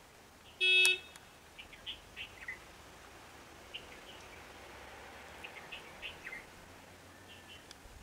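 Birds chirping in scattered short calls, with one brief, loud, beep-like pitched tone about a second in.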